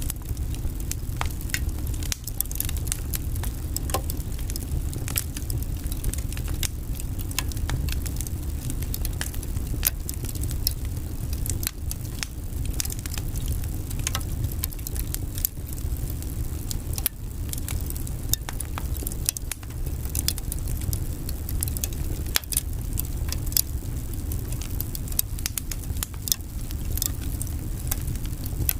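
Wood logs burning in a fireplace, crackling with frequent sharp irregular pops over a steady low rumble of the fire.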